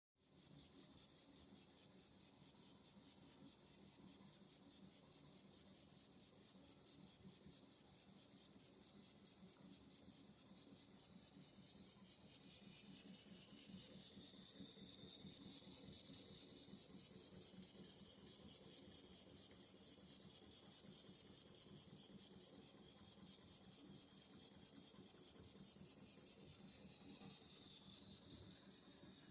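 Small homemade model mine engine running, a steady hiss of exhaust with a fast, even chuffing patter. It grows louder a little before halfway, then eases off.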